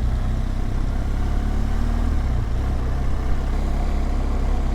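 BMW R1200GSA boxer-twin motorcycle engine running while riding, with the engine note shifting about two seconds in.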